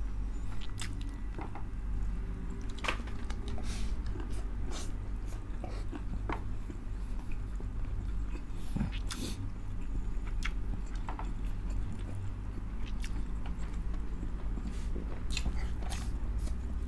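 Close-miked eating: chewing and lip smacking as stewed pork in blood sauce and rice are eaten by hand, with many scattered sharp wet clicks over a steady low hum.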